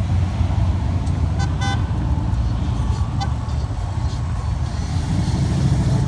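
Steady low rumble of cars and engines going by, with two short car-horn honks, the first about one and a half seconds in and a fainter one about three seconds in.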